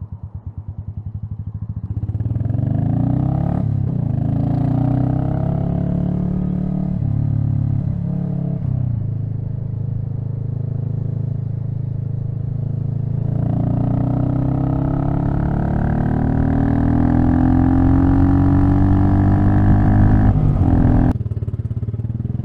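Royal Enfield Meteor 350's single-cylinder engine ticking over, then pulling away and accelerating through the gears. Its pitch climbs and falls back with each shift.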